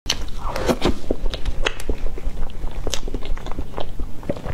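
Chewing a mouthful of soft cream cake, with many small wet clicks of the mouth throughout.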